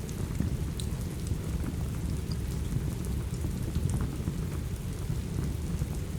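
Steady rain with a dense low rumble, with scattered sharp crackles of a wood fire.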